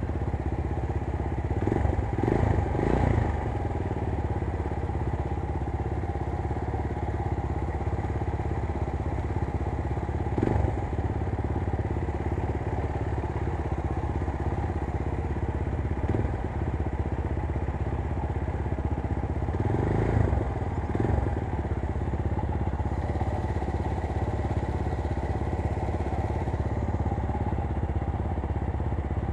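Chinese 250 cc GX-R 250S motorcycle engine idling steadily, with a few short knocks and clatters over it.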